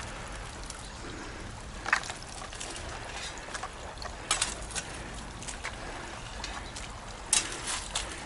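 River water running steadily, with a few short clicks and scrapes scattered through it, about a second in, midway and near the end.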